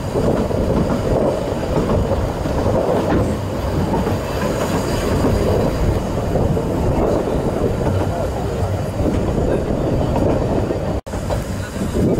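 2ft narrow-gauge railway carriages running along the line, heard from an open carriage: a steady rumble with wheels clattering on the rails. The sound drops out for a moment near the end.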